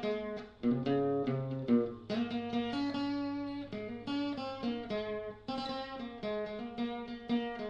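Guitar-led instrumental interlude between sung sections of a song, with notes and chords changing several times a second.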